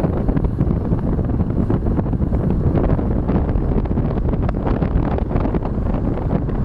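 Wind buffeting the microphone of a rider on a moving motorcycle taxi: a steady, loud, low rumble of rushing air.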